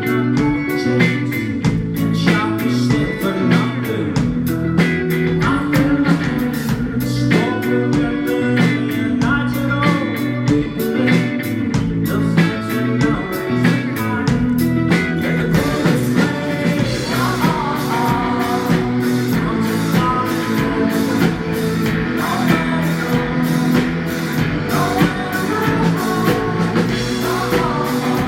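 A rock band playing live: electric guitars over a steady drum-kit beat, with singing.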